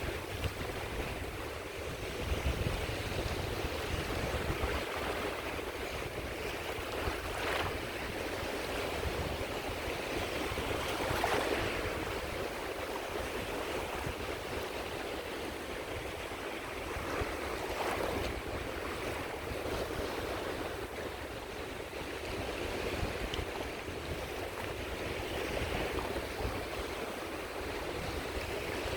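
Small sea waves breaking and washing on the Caspian Sea shore: a steady wash of surf, with a few slightly louder waves breaking now and then.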